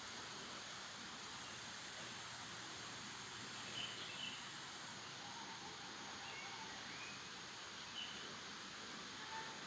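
Small birds chirping now and then over a steady hiss: short high chirps about four seconds in and again near eight seconds, and a few lower calls after five seconds and near the end.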